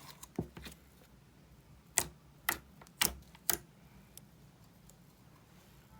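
A handful of sharp clicks or taps of hard objects: one faint one near the start, then four about half a second apart from two seconds in, over a low steady hum.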